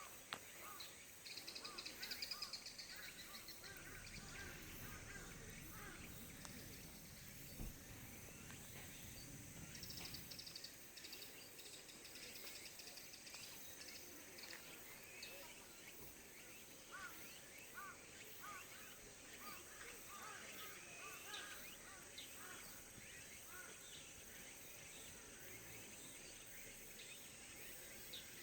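Faint outdoor ambience of insects trilling steadily at a high pitch, with scattered short bird chirps, most of them in the second half.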